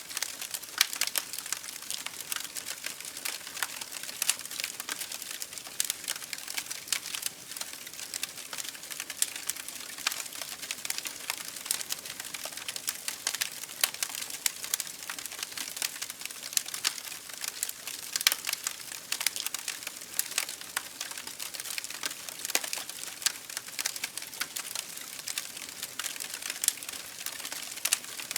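Campfire burning steadily, wood crackling and popping in quick irregular bursts over a soft hiss.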